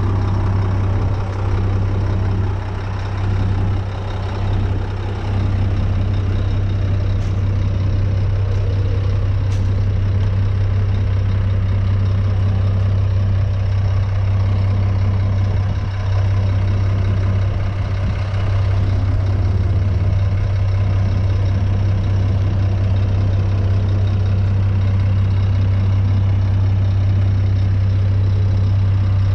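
Scania G420 truck's six-cylinder diesel engine idling steadily with a deep, even hum.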